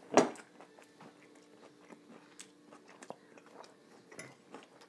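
A person chewing a mouthful of orange-cashew chicken stir-fry, with faint crunches and small mouth clicks from the cashews. A sharp knock just after the start is the loudest sound.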